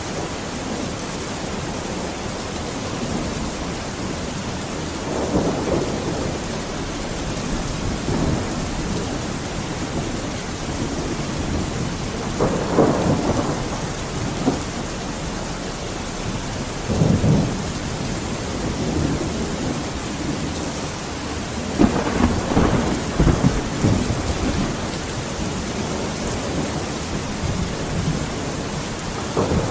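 Steady heavy rain with thunder rolling through it several times; the strongest rumbles come near the middle and about three-quarters of the way in.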